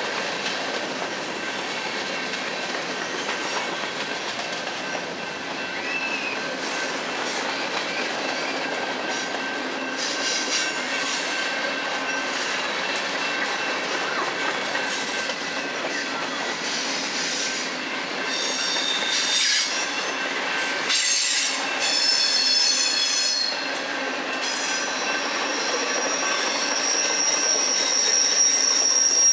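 Freight train cars, mostly covered hoppers, rolling past on steel rails with a steady rumble. High-pitched wheel squeal comes and goes from about a third of the way in, and one long steady squeal is held near the end.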